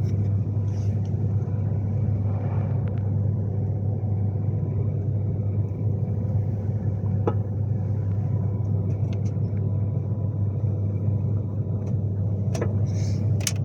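Steady low rumble and hum inside the passenger saloon of a Class 390 Pendolino electric train, with a faint steady tone above it and a single click about seven seconds in.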